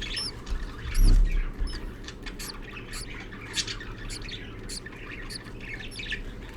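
Budgerigars chirping: many short, high calls, several a second, with a low bump about a second in.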